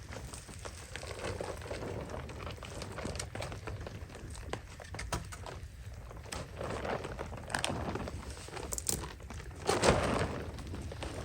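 Rain falling on a shelter and a dying campfire: many irregular light ticks and crackles over a soft hiss, with a louder rustle about ten seconds in.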